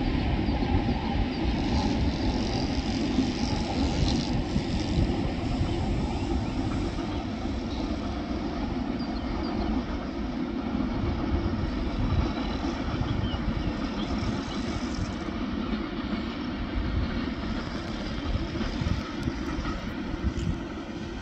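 Electric passenger train running past at a distance, a steady rumble of wheels on track without pauses.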